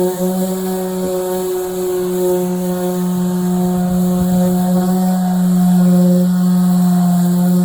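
Electric power sander running steadily while sanding lifted epoxy paint off a boat hull with coarse 40-grit paper. Its motor gives a constant hum with overtones and grows slightly louder about five seconds in.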